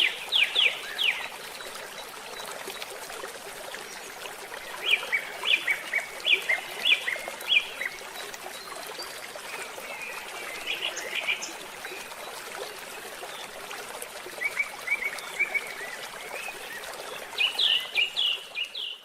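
Birds singing in repeated runs of quick, downward-sweeping chirps over the steady trickle of a stream.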